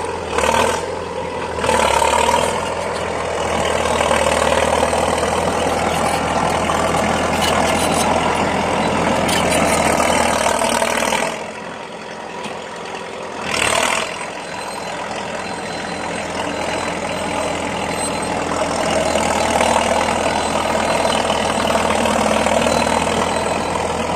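Komatsu D50A crawler dozer's diesel engine running loud through its exhaust pipe, with a short quieter spell about halfway and brief louder surges near the start and just after.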